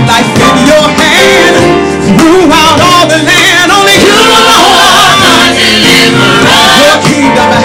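Gospel worship music: voices singing with wavering melodic lines over a full instrumental backing.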